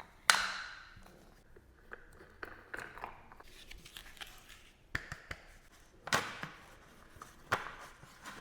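Hard plastic knocks, clicks and scraping as an electric fan's column is fitted into its black plastic base, with a sharp knock just after the start and more knocks near 5, 6 and 7.5 seconds.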